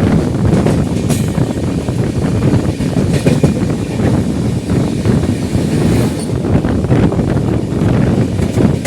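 Express passenger train running along the track: a steady loud rumble of wheels on rails with irregular clattering knocks and a few sharp metallic clicks.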